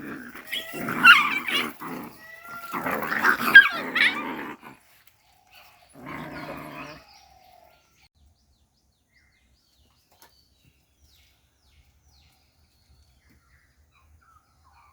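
Dog growling and barking in a loud run of about five seconds, one shorter burst a second later, then near silence.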